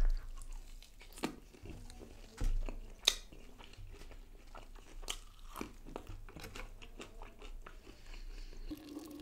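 Close-up biting and chewing of a fried egg pakora: an irregular run of sharp crunches and mouth clicks. Dull low thumps come right at the start and again about two and a half seconds in.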